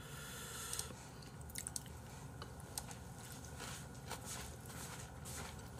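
A person chewing and biting food close to the microphone, quietly, with scattered small crunches and mouth clicks.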